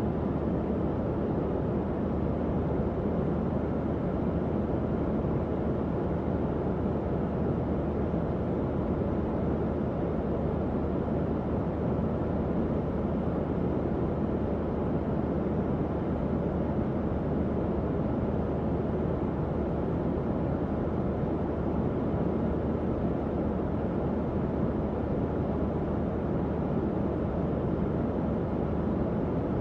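Tower fan running steadily: an even, low airflow whoosh with a faint low motor hum and no changes.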